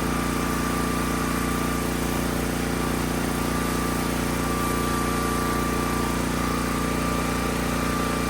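Hotsy steam pressure washer running steadily, its engine and burner going at an even, unchanging pitch.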